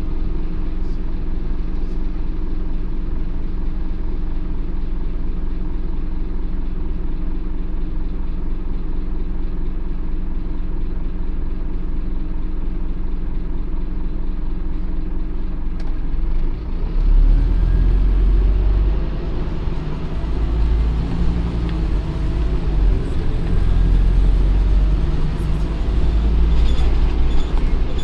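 Scania OmniCity N230UD double-decker bus's five-cylinder diesel engine idling steadily, then a little over halfway in it pulls away, running louder with its note rising and dipping as it accelerates.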